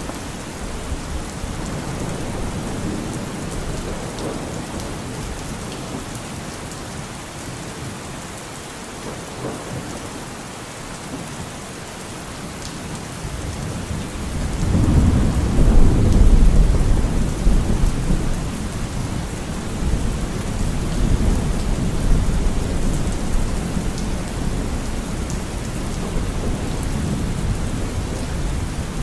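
Steady rain falling. A long, deep rumble of thunder swells about halfway through and slowly dies away under the rain.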